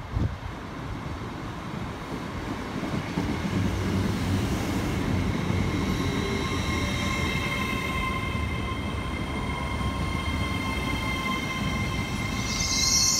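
LNER Azuma (Hitachi 800-series) train arriving along the platform: a low rumble of wheels and underframe builds over the first few seconds, then several high, steady whining tones set in about halfway through, one of them sliding lower near the end. A loud hiss starts just before the end.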